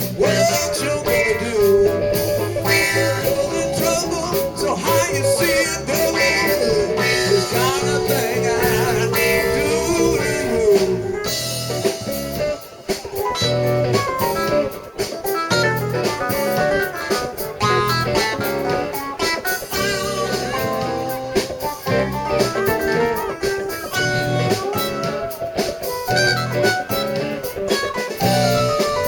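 Live blues band playing, with electric guitar leading over bass and drums. The level drops briefly about twelve seconds in.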